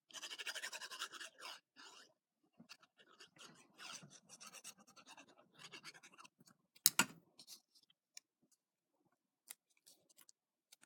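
Paper and craft supplies handled at a worktable: scratching and rustling as a folded paper banner on a paper clip is worked and glued, with one sharp knock about seven seconds in, the loudest sound, then a few faint ticks.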